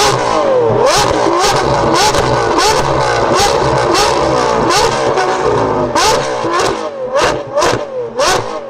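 Lamborghini Revuelto's V12 through a Gintani aftermarket exhaust, revved up from idle and then blipped again and again, with sharp exhaust pops and bangs cracking between the revs.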